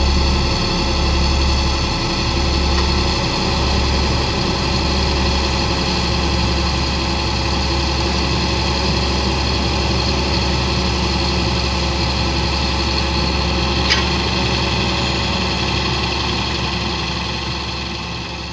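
Diesel engine of a farm harvest machine running steadily at a constant speed, with a brief click about fourteen seconds in. It fades out near the end.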